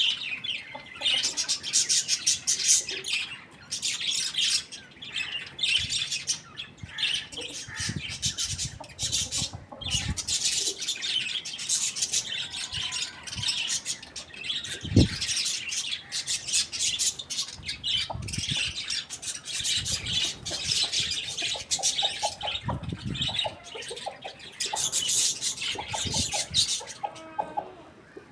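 Many small birds chirping busily and without pause, in a dense high twitter. A single dull thump comes about halfway through, and a few lower, evenly spaced calls sound near the end.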